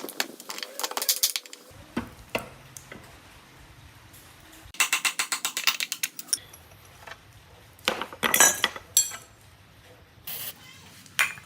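Metal ratcheting clicks, a fast even run of about ten clicks a second lasting a second and a half, with scattered metal knocks and clinks before and after it.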